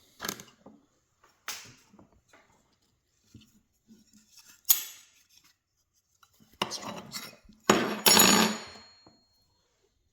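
Metal hand tools clicking and clattering against the plastic speaker housing as the glued-on ring is pried away. There are scattered light clicks, a sharp knock about halfway through, then two louder clattering spells near the end, the last leaving a brief metallic ring.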